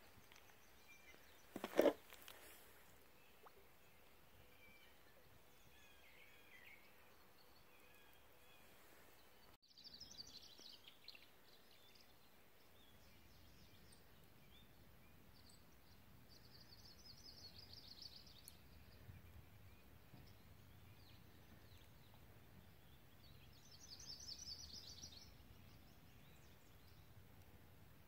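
Quiet outdoor stillness with distant birds calling: soft chirps early on, then three high, chattering trills, each a second or two long, about ten, seventeen and twenty-four seconds in. A single sharp knock about two seconds in.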